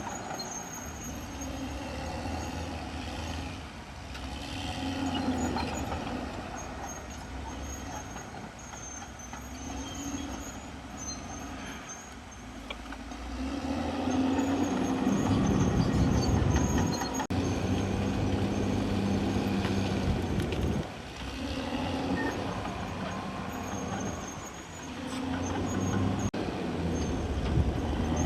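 CAT D6R XL bulldozer's diesel engine working under varying load, its sound rising and falling, louder from about halfway through.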